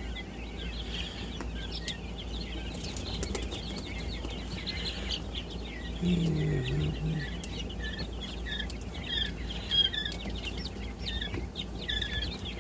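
Many young quail and guinea keets peeping steadily in a brooder, short high chirps overlapping one another, with a brief low sound about six seconds in.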